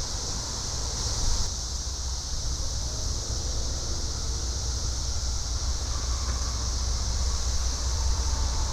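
Steady chorus of cicadas droning high over a low rumble from an approaching short local freight train, growing slightly louder toward the end.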